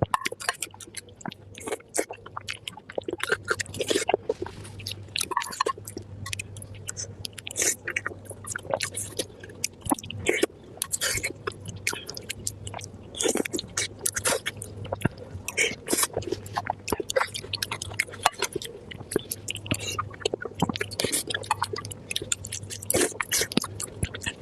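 Close-miked chewing of soft spicy pig brain: wet smacking and irregular little mouth clicks, several a second.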